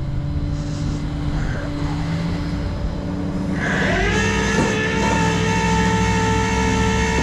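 A truck engine running with a low drone. About halfway in, a whine rises in pitch and then holds steady.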